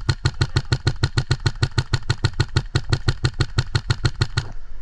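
Airsoft gun firing a long full-auto burst, about nine shots a second, stopping near the end.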